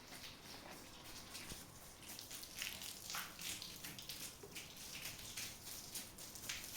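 Faint, irregular patter of water: many small drops and splashes.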